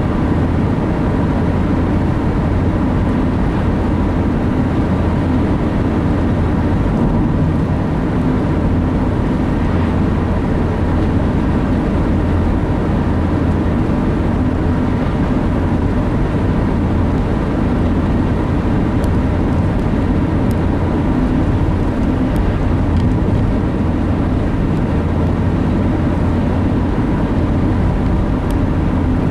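Steady engine and road noise inside a moving vehicle's cab, with a few faint ticks.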